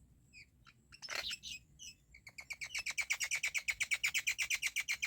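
Baby myna nestlings calling: a few high chirps, a louder harsh call about a second in, then a rapid, even run of high calls, about eight a second, from about two seconds in, the begging of chicks at feeding.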